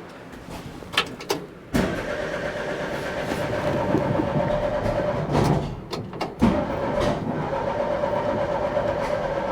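VW Bus air-cooled flat-four being cranked over on its starter motor with a steady whine, after two clicks about a second in. It is cranked twice with a short break around the sixth second and does not catch. This failure to start is one the owner puts down to wrong ignition timing, suspecting the distributor was not dropped in correctly.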